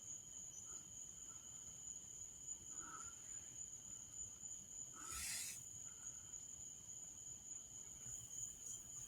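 Faint, steady high-pitched chirring of crickets or other night insects, with a brief noisy rustle about five seconds in.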